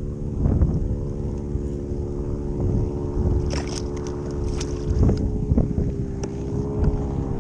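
Boat engine running steadily, its hum dipping slightly in pitch about six seconds in, with wind rumbling on the microphone and a few knocks.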